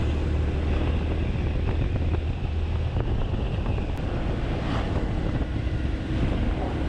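Wind buffeting the microphone over the running noise of a motorbike being ridden along a road, with a steady low rumble that drops away about three seconds in.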